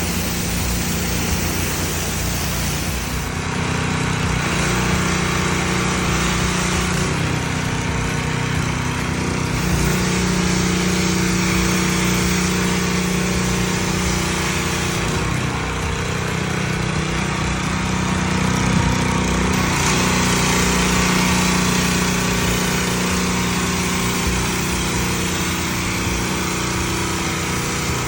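Pressure washer's engine running steadily, with the hiss of the high-pressure water spray rinsing a concrete driveway; the spray's hiss strengthens and eases several times as the wand moves.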